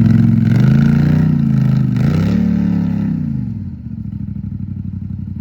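Off-road vehicle engine revving hard while pushing through mud. The pitch rises and falls two or three times, then eases off to a lower steady run about three and a half seconds in.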